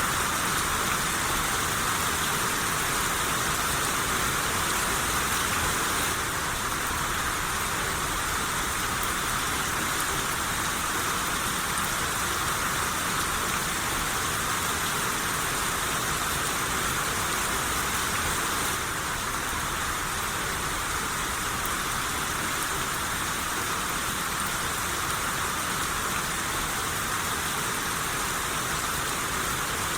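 Steady rain shower, an even hiss of falling rain with no distinct drops or thunder; it steps slightly quieter about six seconds in and again around nineteen seconds.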